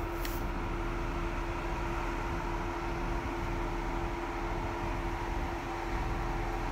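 Jeep Wrangler engine running steadily at low revs, a constant hum with no revving.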